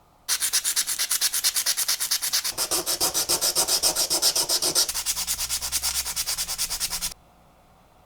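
Hand sanding of the meat chopper's crank handle: sandpaper rubbed rapidly back and forth, about seven strokes a second, starting suddenly and stopping suddenly after about seven seconds.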